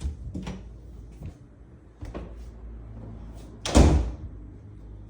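A few light knocks and clatters, then a door shut with a solid bang about four seconds in.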